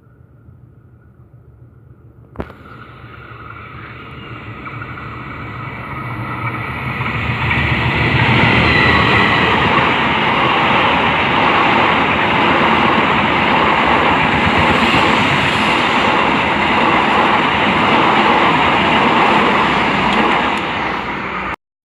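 A train approaching and running past close by: a steady rumble with rail and wheel noise that grows louder over several seconds and then holds loud, cutting off abruptly near the end. A single sharp click comes a couple of seconds in.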